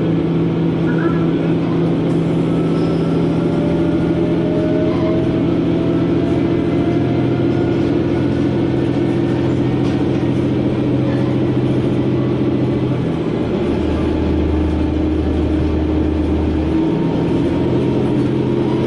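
KiHa 120 diesel railcar under way, heard from inside the cabin: a steady engine drone over wheel and rail noise. Partway through, a deeper hum comes in for about three seconds as the engine note shifts, then the drone settles back.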